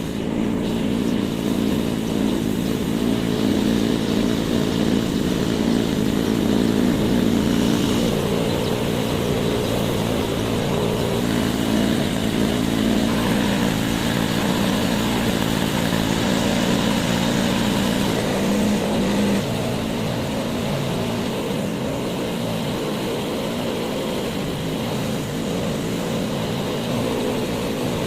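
A motor-driven machine running steadily, dropping a little in level about two-thirds of the way through.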